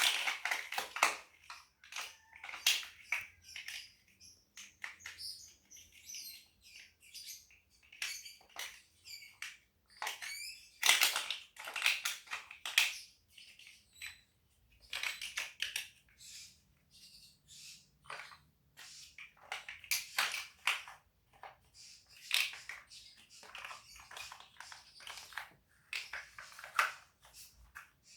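Plastic Lego bricks clicking and clattering as they are handled and pressed together, in irregular bursts of sharp little clicks.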